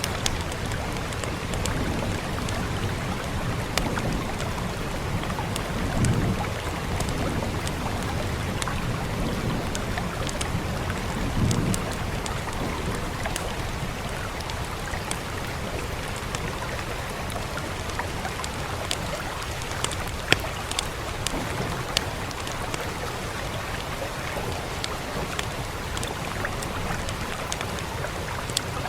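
Steady hiss of rain mixed with the sharp pops and crackles of a wood fire, scattered irregularly throughout. Two brief low rumbles come about six and eleven seconds in.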